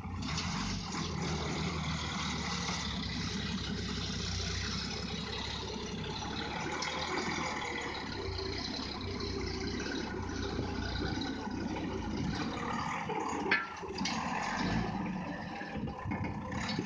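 SEE tractor's diesel engine running under load as its front loader digs in dirt, with a single sharp knock about thirteen seconds in.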